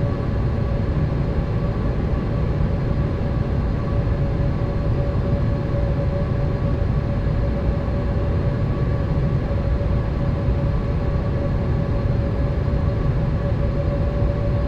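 Boeing 787 cabin noise in flight: a steady rumble of engines and airflow with a steady hum tone running through it, unchanging throughout.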